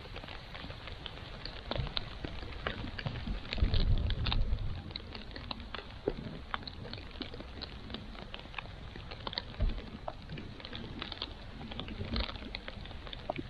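Rain pattering, with many scattered sharp drips, and a low rumble of wind buffeting the microphone about four seconds in.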